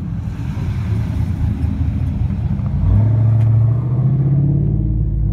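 A car engine running with a deep rumble; about three seconds in it gets louder and its pitch climbs slightly, as it revs or pulls away.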